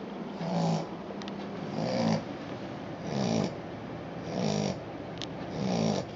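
Australian Shepherd puppy snoring in its sleep: five short, even snores, about one every second and a third.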